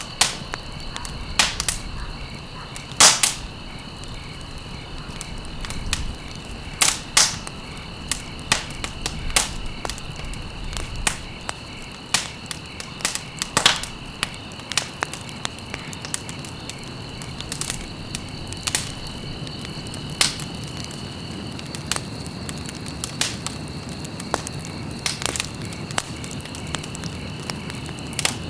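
Wood fire burning in a fireplace, crackling with irregular sharp pops, the loudest about three seconds in, over a steady hiss of flame.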